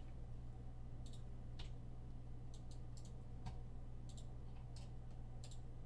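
About a dozen light, irregularly spaced clicks from a computer mouse and keyboard, over a steady low electrical hum.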